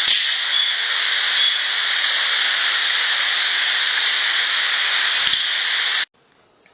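Heavily amplified field-recorder playback: a loud, steady hiss with two faint low thuds, one right at the start and one about five seconds in. The hiss cuts off abruptly about six seconds in.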